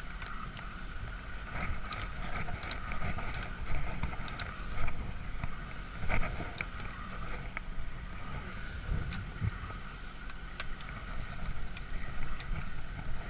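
A machine running steadily, with a low rumble and a steady mid-pitched whine, and scattered light clicks and knocks.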